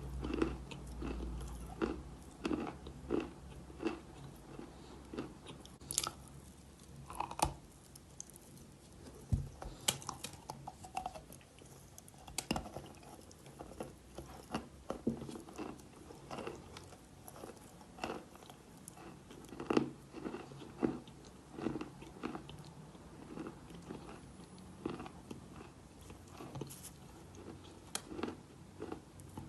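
A person biting and chewing chalk close to the microphone: crisp crunches come in quick runs of several a second, with short pauses between bites.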